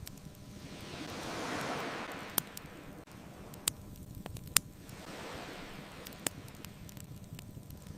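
Ocean waves washing ashore, one swelling and fading a second or two in and a weaker one past the middle, under a crackling wood fire with about four sharp pops.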